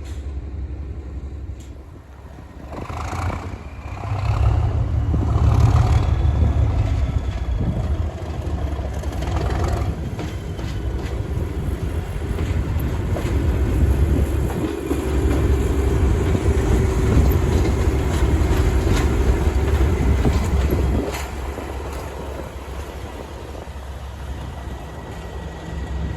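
A Class 37 diesel locomotive's English Electric V12 engine working hard under full power, a deep steady rumble with train running noise. It builds up about four seconds in and eases somewhat about twenty-one seconds in.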